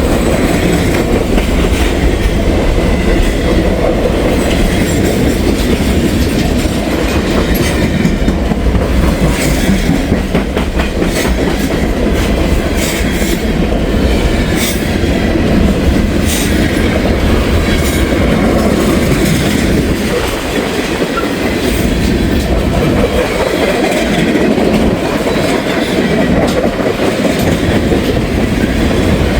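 Freight train rolling past at close range: a steady rumble of cars and wheels, with a run of short clicks from the wheels over the rail joints about a third of the way through.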